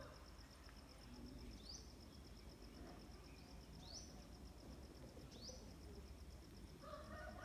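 Faint rural background: an insect's steady, evenly pulsing high trill, with a bird giving a short rising chirp about four times.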